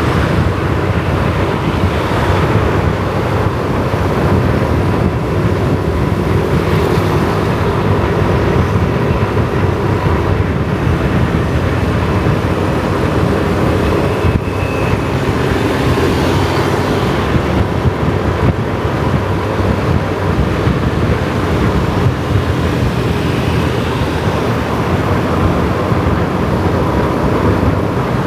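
Kawasaki ZX-4R's four-cylinder engine running steadily while riding, with wind rushing over the microphone.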